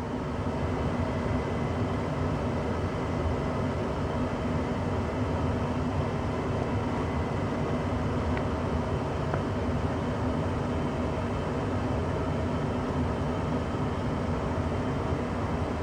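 1994 Tempstar SP80 gas furnace running with its blower fan on, a steady rush of moving air at an even level. With it comes a faint high-pitched whooshing of air through a small gap, which has come with the blower ever since the furnace was cleaned.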